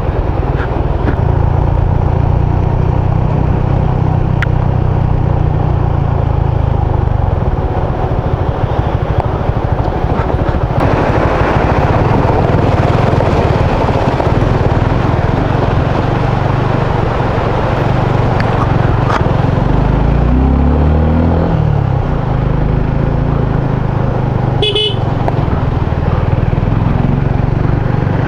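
Motorcycle engine running steadily as the bike rides a rough dirt road, with a rush of wind and road noise. The engine pitch shifts with the throttle about 20 seconds in. A short horn toot sounds about 25 seconds in.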